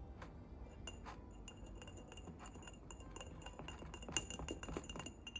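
A metal spoon stirring a glass of vinegar and bicarbonate of soda, clinking against the glass again and again with a bright ring. The clinks come fastest and loudest about four seconds in.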